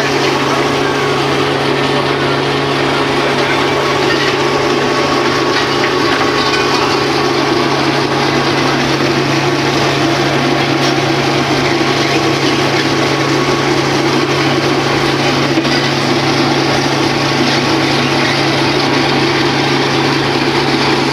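A ship's engine running steadily, a constant hum with a dense mechanical noise over it that does not change.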